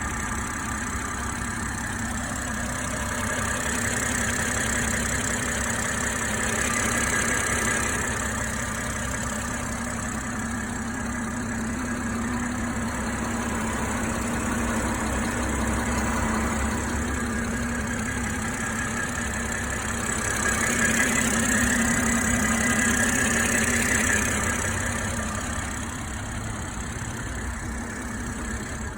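BMW M340i's B58 turbocharged inline-six idling steadily, with the ticking of its 350-bar direct-injection high-pressure fuel pump. The sound grows somewhat louder twice for a few seconds.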